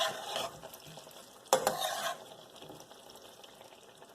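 A cauliflower and potato curry being stirred in a cooking pan: a scrape at the start and another sharper one about a second and a half in, then quieter.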